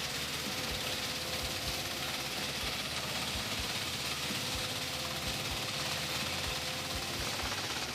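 Engine of a heavy wood-processing machine running steadily, with a constant high hiss, a steady hum and irregular low thuds.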